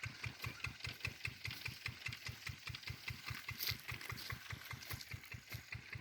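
Field Marshall 10 hp single-cylinder diesel engine running steadily while driving a water pump, with an even beat of about five to six strokes a second.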